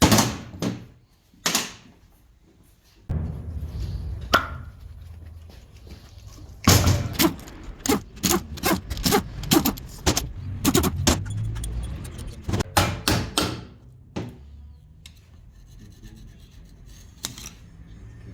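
Irregular knocks, clicks and clatter from hand tools and parts being handled on an engine, over a low steady rumble that starts suddenly about three seconds in and dies away about fourteen seconds in.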